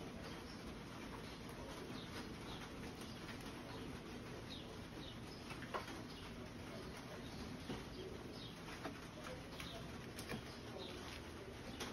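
Birds calling, dove-like cooing with a few faint chirps, over a steady background hiss, with a few soft clicks.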